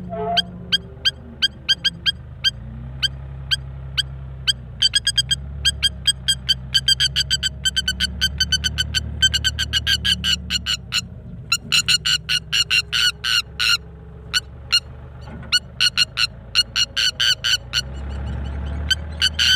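A bird giving rapid runs of sharp, repeated alarm calls, several a second, in defence against the bulldozer in front of it. A heavy engine, the bulldozer's, runs low and steady underneath.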